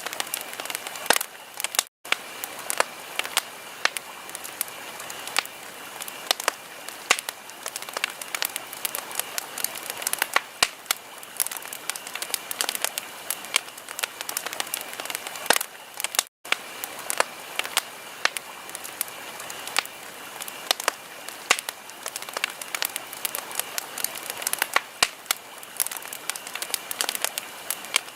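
Wood fire crackling in a fireplace: many sharp pops and snaps at irregular intervals over a steady soft hiss. The sound cuts out for an instant twice, about 2 seconds in and again about 16 seconds in.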